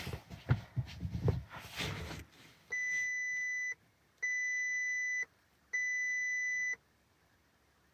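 Handling knocks and rustling, then three one-second electronic beeps at an even high pitch, about half a second apart, from the Audi A4 B5's instrument-cluster warning buzzer as the ignition is switched on before the cold start.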